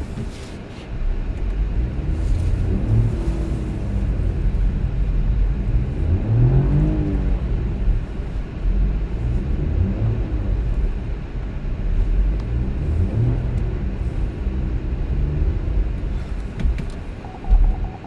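Car driving: a steady low rumble of engine and road noise, with pitch rising and falling a few times in the middle. A sharp loud knock comes near the end, and a faint steady tone starts just before the end.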